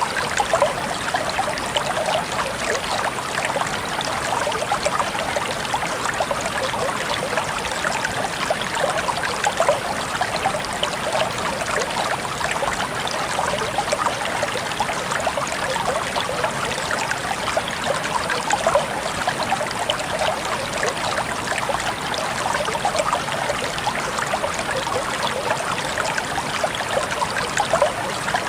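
Steady trickling, splashing water: many small droplets and splashes running together into an even flow with no breaks.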